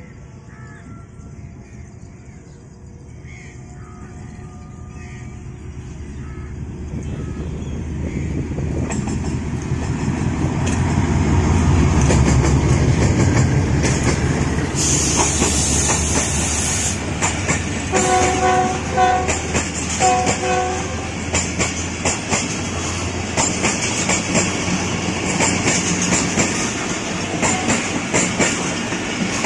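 Diesel-hauled passenger train approaching and running through. The locomotive's engine grows louder as it nears and peaks about twelve seconds in. About two-thirds of the way through come two short horn notes, then the coaches roll past with a rhythmic clickety-clack of wheels over rail joints. Crows caw faintly at the start.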